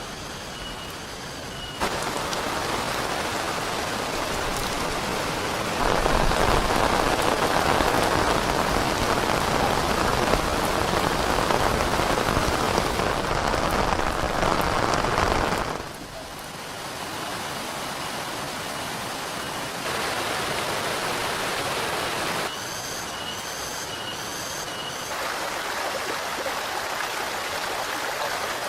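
Steady rain falling, much heavier from about six seconds in until about sixteen, then lighter again. Twice, at the start and near the end, a high chirp repeats a few times a second over the rain.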